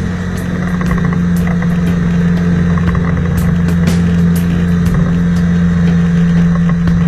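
An engine running steadily at an even pitch, with scattered sharp ticks over it.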